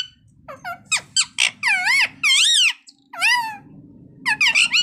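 Ringneck parakeet vocalizing in a run of about six short, high-pitched squawky calls, each swooping up and down in pitch, with brief pauses between them.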